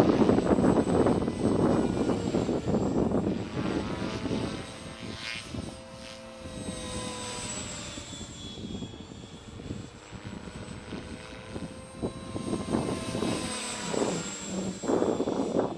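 Beam Acro480 electric RC helicopter flying freestyle: main rotor and brushless motor running, louder in the first few seconds and again near the end. In the quieter middle, a steady whine drifts slowly up and down in pitch.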